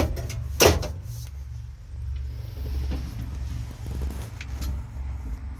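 A sharp knock just over half a second in, followed by a few faint clicks, over a steady low rumble.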